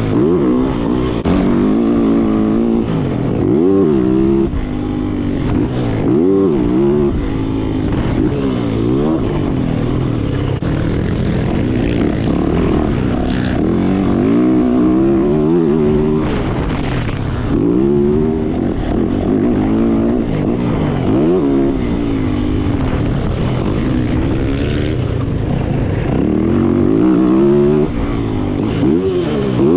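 Yamaha YZ450F single-cylinder four-stroke dirt bike engine being ridden hard, its pitch climbing and dropping off again every couple of seconds as the throttle is opened and closed.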